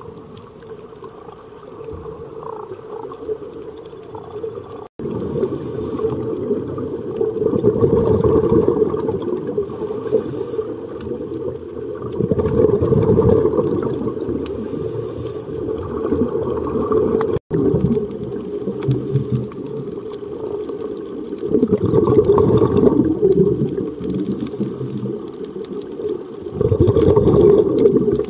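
Rushing water noise, swelling and easing every few seconds, with two brief dropouts.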